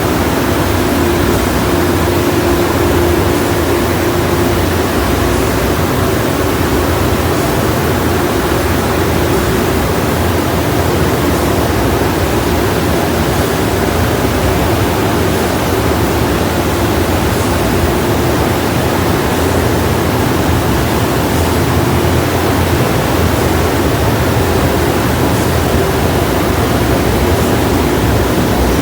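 Ryko SoftGloss Maxx 5 automatic car wash running: a loud, steady rushing with a faint constant hum under it.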